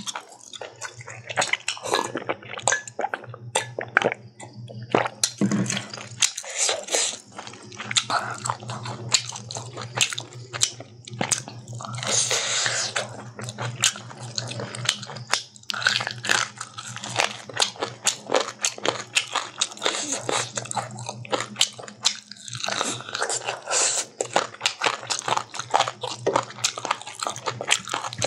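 Close-miked eating sounds: chewing and biting of chicken and rice, with many wet mouth clicks and smacks, and fingers squishing rice on the plate. A low steady hum runs underneath.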